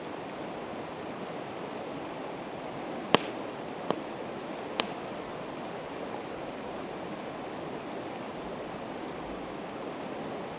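Campfire of split evergreen wood crackling, with three sharp pops a few seconds in, over the steady rush of a river. A cricket chirps about twice a second through the middle.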